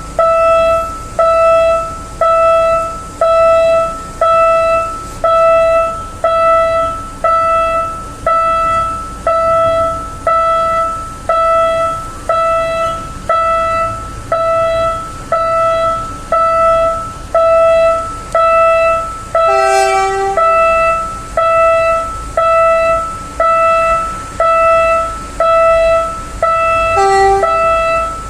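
Railway level-crossing warning bell ringing, one electronic ding about every second, each struck sharply and fading. Two short toots cut in, one about two-thirds of the way through and one near the end.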